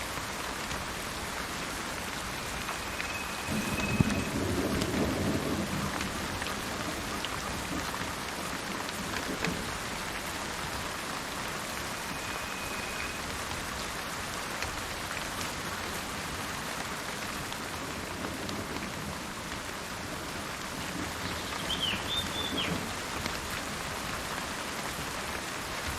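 Steady rain falling, with a low rumble of thunder about four seconds in and a weaker rumble near the end. A bird gives two short, level whistled notes and a brief chirp.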